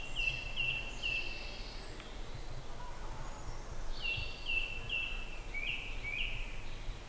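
A songbird singing: a phrase of four quick, clear repeated notes, then a second phrase about four seconds in whose last two notes drop lower. A steady low rumble of background noise runs under it.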